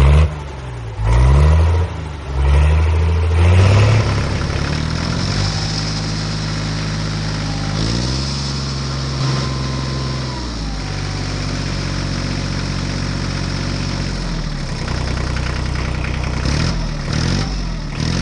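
An engine revving in several surges over the first few seconds, then running steadily with its pitch drifting up and down.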